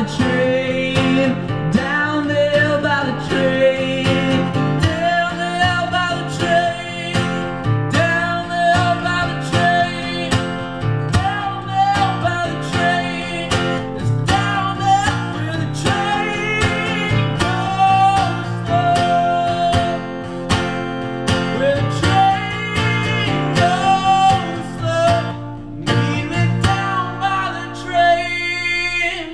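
Acoustic guitar playing the instrumental outro of a live folk song: strummed chords with a melody line above them, dipping briefly near the end before the closing chords.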